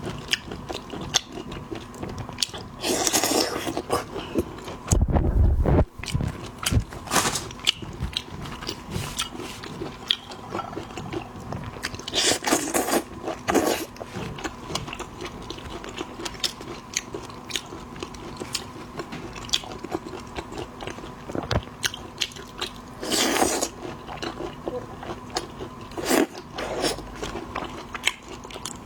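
Eating seafood: chewing with crunchy bites and many small clicks, and louder crunches three times. A low thump comes about five seconds in.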